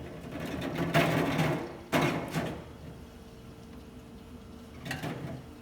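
Drink containers being set down and slid back onto a mini fridge's shelf: two sharp knocks with a short scraping slide, about one and two seconds in, then a softer one near the end.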